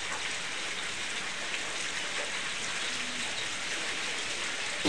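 Steady rain hiss, with a single sharp knock at the very end.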